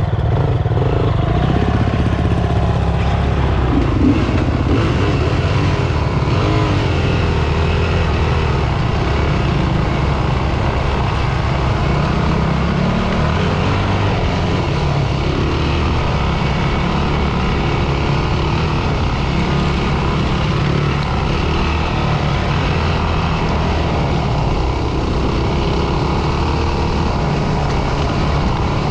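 Dirt bike engine running steadily as the bike is ridden along a trail.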